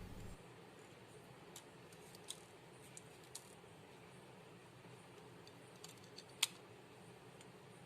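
Faint, scattered small clicks and taps of tools on a smartphone's internal parts as its flex-cable connectors are worked loose, with one sharper click about six and a half seconds in.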